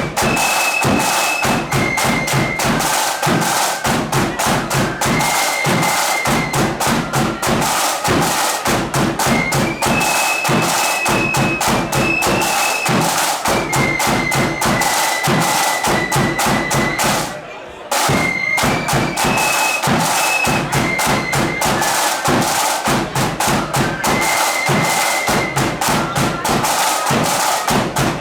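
Flute band playing a marching tune: massed flutes carry a high melody over rapid snare drumming and bass drum beats. The music breaks off for a moment about two thirds of the way through, then starts again.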